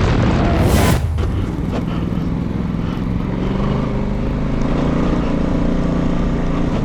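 Motorcycle engine running while riding, its pitch drifting slightly, over heavy wind rumble. About a second in, a short loud hiss cuts off abruptly.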